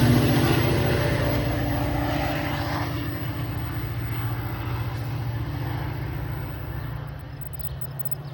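A train's engine rumble fading steadily as the train moves away.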